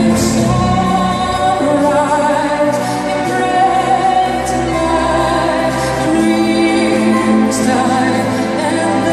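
Live pop song with orchestra: a female lead singer holding long, wavering notes over a full accompaniment.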